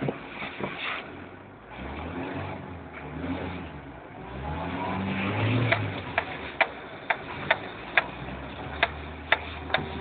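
Supercharged Honda H22A2 four-cylinder engine swapped into a Fiat Cinquecento, running under hard acceleration and rising in pitch to a peak about five and a half seconds in. It then drops back to a lower hum, with sharp ticks about twice a second.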